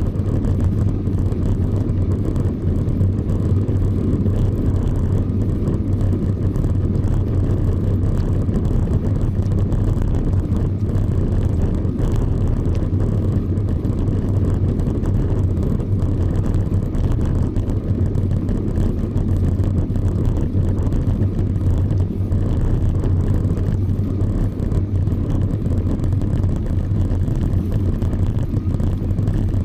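Steady low rumble of wind and rolling noise on the microphone of a camera riding along on a moving bicycle.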